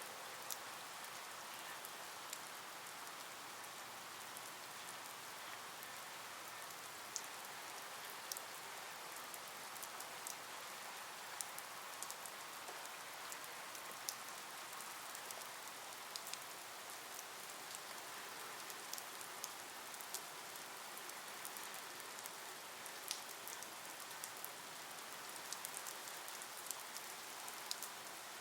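Steady hiss of rain with scattered sharp ticks of drops striking, irregular throughout.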